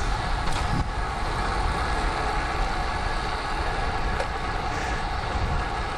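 Steady wind rush and road noise from a moving road bike, with wind buffeting the camera microphone as a constant low rumble.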